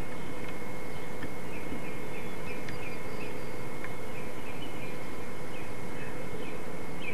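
A small bird chirping in short, high notes, about two or three a second, over a steady hiss and faint hum.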